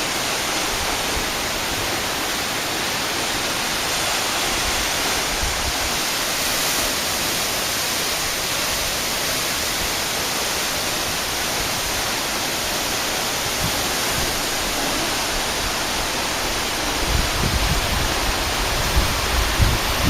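Waterfall: water falling and splashing, a steady even rush. Low rumbling bumps join it in the last few seconds.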